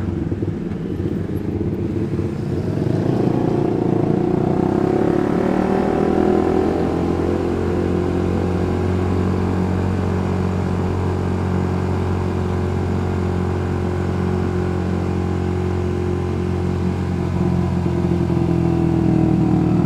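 Suzuki GSX-R150's single-cylinder engine running under way, its note rising over the first few seconds as the bike picks up speed, then holding steady at a low cruising speed.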